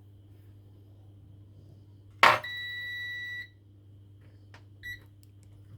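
A click, then a steady high electronic beep lasting about a second, and a second short blip of the same pitch near the end, from a piece of bench electronics equipment, over a low steady hum.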